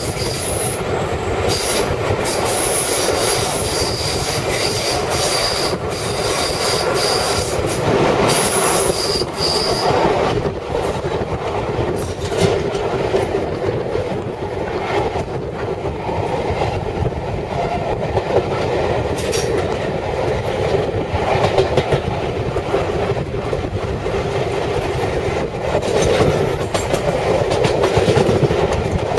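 Passenger train coaches running at speed, heard from an open carriage window: a steady wheel-on-rail rumble with repeated clicks from the track, and a high, steady wheel squeal for roughly the first ten seconds.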